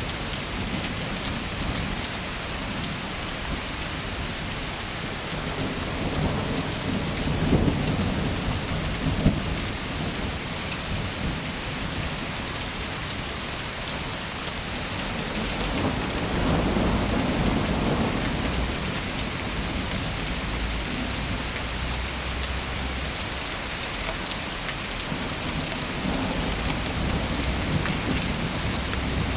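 Steady heavy rain, with two low rumbling swells about seven and seventeen seconds in.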